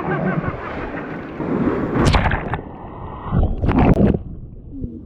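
River water rushing and splashing around an inflatable raft, with wind buffeting the microphone. Two louder bursts come about two seconds and about four seconds in.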